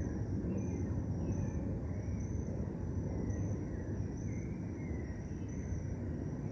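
Dusk park ambience: a cricket chirping steadily, a short high chirp repeating a little more than once a second, and birds calling faintly with short falling notes, over a steady low rumble of distant city traffic.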